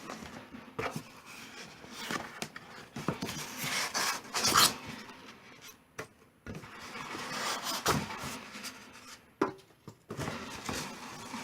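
Cardboard box and packaging being handled while a space heater is unboxed: irregular rubbing, scraping and rustling with a few sharp knocks.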